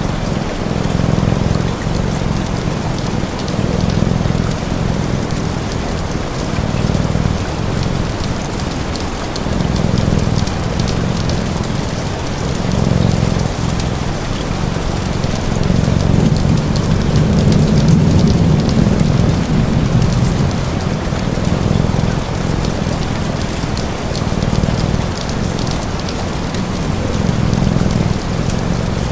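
Steady rain pattering on a surface, layered with a cat's low purring that swells and fades every second or two, and faint fine crackles of a wood fire.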